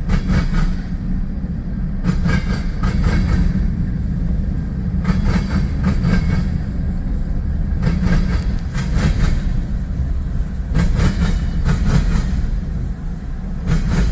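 Freight cars of a long CSX mixed freight train rolling past: a steady low rumble with groups of wheel clatter about every three seconds.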